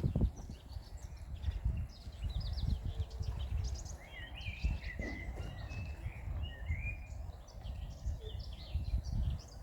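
Several small birds chirping and singing, with a warbling phrase in the middle, over a low steady rumbling noise.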